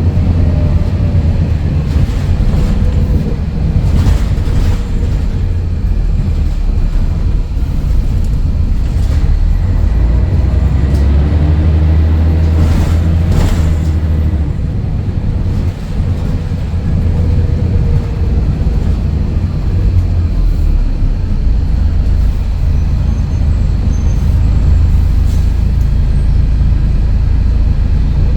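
Scania DSC11 diesel engine of a Scania L113CRL bus running loudly while the bus is under way. Several sharp knocks or rattles sound over it, and there is a brief lull about sixteen seconds in.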